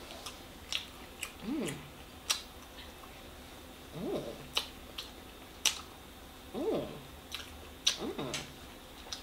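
Close-up eating sounds of a person gnawing grilled lamb meat off the bone: wet chewing and sharp lip and tongue smacks scattered throughout. Four short hums rise and fall in pitch between the bites.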